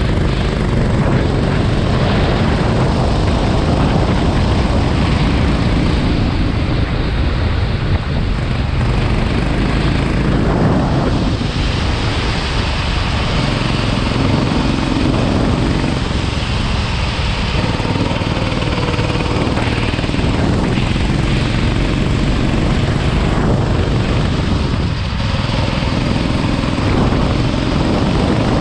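Go-kart engine running at speed on a wet track, its pitch rising and falling through the lap, under a heavy, steady rush of wind and road noise.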